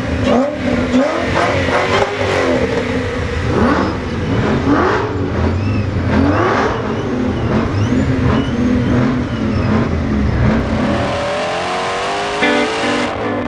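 Shelby GT500 Super Snake's supercharged V8 revving again and again, the engine pitch climbing and falling with each blip. About eleven seconds in it gives way to a long, steady rise in pitch.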